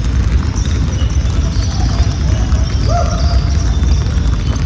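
Basketballs bouncing on a gym floor in steady, dense thuds, with faint voices in the background.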